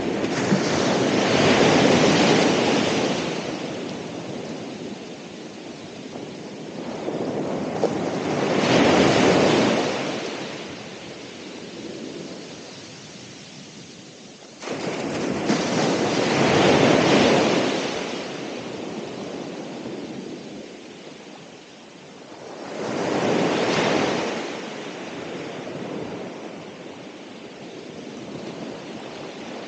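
Ocean waves breaking on a shore: four surges of surf, each swelling and fading over a few seconds, about seven seconds apart. The level jumps up abruptly about halfway through.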